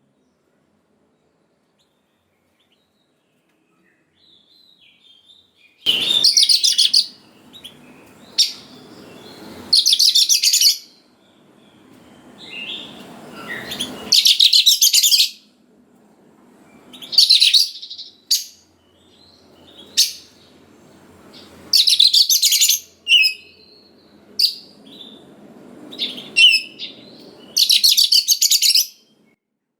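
Oriental magpie-robin singing: loud, dense chattering phrases every two to four seconds, with softer calls between them. It is silent for the first four seconds or so.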